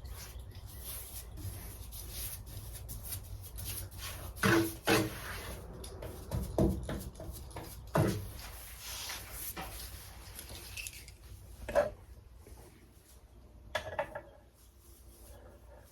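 Rubbing and brushing on a wooden butcher block countertop as a top coat is spread over it, with a few short knocks scattered through.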